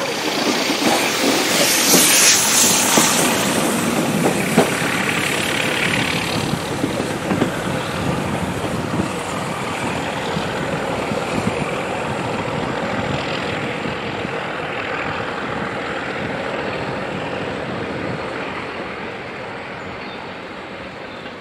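A passenger train running away beneath: coach wheels clicking over rail joints and a steady rumble. Behind it is the sound of the Class 31 diesel working hard at the head of the train. The whole fades into the distance near the end.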